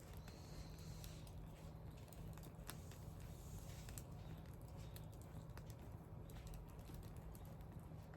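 Wood fire crackling softly, with scattered irregular pops and snaps over a low steady rumble.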